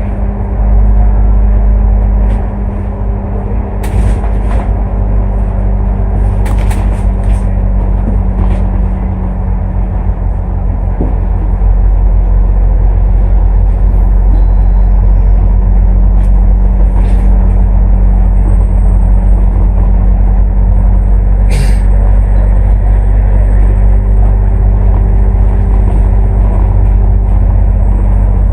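ADL Enviro500 MMC double-decker bus with a Cummins ISL8.9 diesel engine, running on the move with a steady low drone. It grows louder about twelve seconds in, and a few short clicks and rattles come through.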